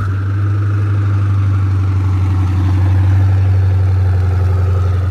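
Koenigsegg Agera R's twin-turbo V8 settling into a steady, even idle just after a cold start.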